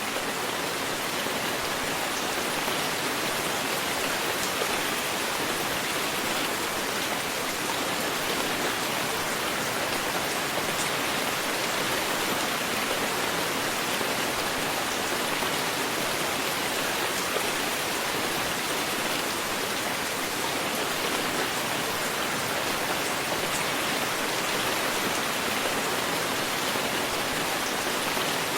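Steady heavy rain falling, an even hiss of rainfall with faint scattered drop ticks and no thunder.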